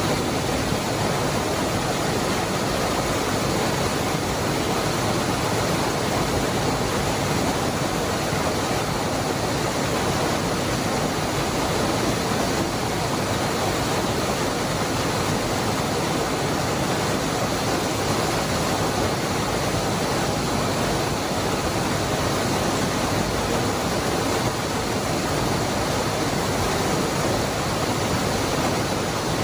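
Waterfall rushing steadily: a constant, even wash of falling water with no breaks or changes.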